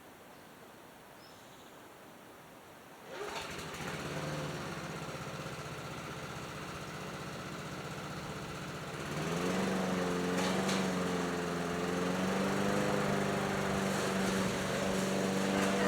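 Push mower's small gasoline engine running. It comes in about three seconds in and picks up to a higher, louder, steady speed about nine seconds in. It runs now that its ignition points have been cleaned.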